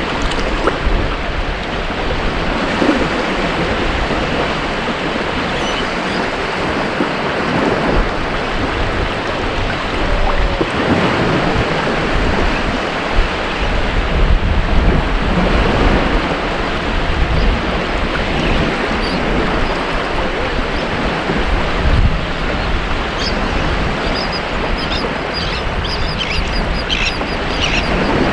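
Ocean surf washing and breaking on a beach in a continuous, swelling rush. Near the end, short high bird chirps sound over it.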